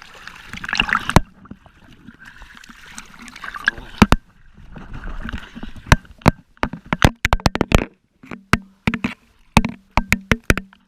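Jet ski crossing a big wave: water rushing and splashing, then a rapid series of sharp cracks from spray and wind hitting the microphone, with the engine's steady hum coming through in the last few seconds.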